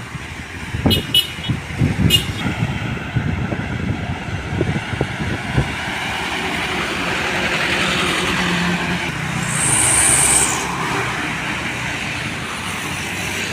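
Heavy trucks passing on the road, engine and tyre noise with a run of rattling clunks over the first few seconds. A short air-brake hiss comes about ten seconds in.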